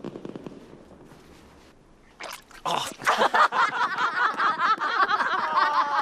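Water in a tub splashing and bubbling hard, starting about two and a half seconds in, as a face is ducked into it in bobbing for apples. Before that there is a faint crackle that fades out.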